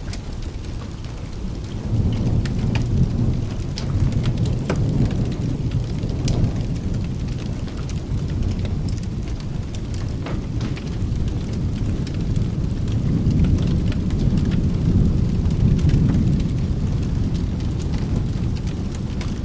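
Rolling thunder rumbling over steady rain, swelling about two seconds in and again near the end, with scattered sharp crackles from a fireplace.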